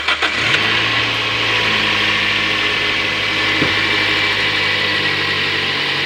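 Toyota Corolla petrol engine just started, catching and settling within the first half-second into a steady idle.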